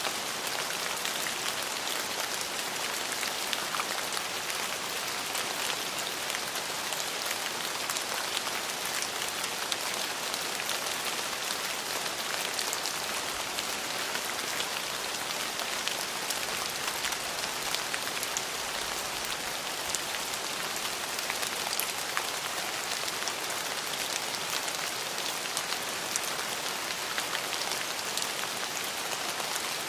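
Steady rain falling on a surface: a constant hiss scattered with many sharp individual drop hits, and no thunder.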